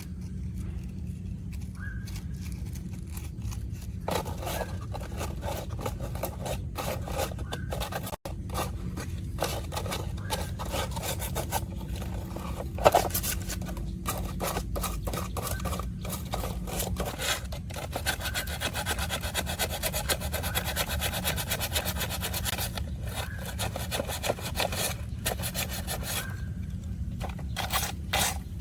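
Quick back-and-forth rubbing and scraping strokes of hand work on a surface, with a sharp knock about halfway through.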